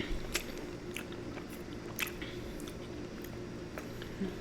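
Close-miked chewing of a mouthful of Nature's Cereal (pomegranate seeds and berries in coconut water), quiet, with scattered short wet clicks.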